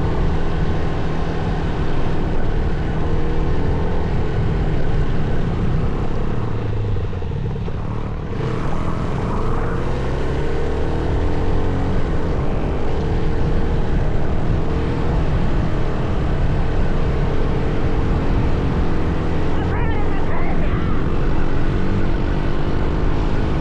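Dirt bike engine running on a trail ride, its revs rising and falling as it accelerates and eases off.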